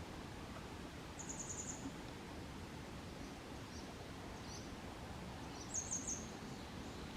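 Grey wagtail singing: two short, rapid high trills, one about a second in and another near six seconds, with a few faint thin notes between them, over a steady low background noise.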